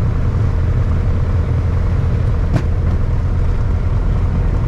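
Single-engine piston airplane's engine and propeller running steadily, a heavy low drone heard inside the cabin, with one brief tick about halfway through.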